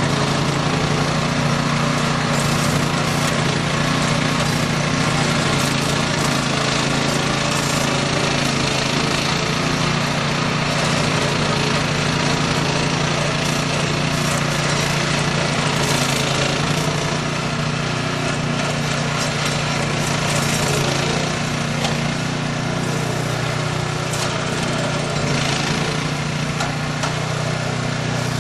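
Small gasoline engine of a snow-clearing machine running steadily at working speed, without a break.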